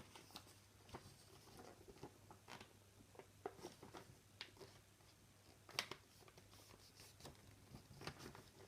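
Faint rustling and crackling of a sheet of paper being folded and creased by hand, as scattered soft clicks with a slightly louder one near the middle.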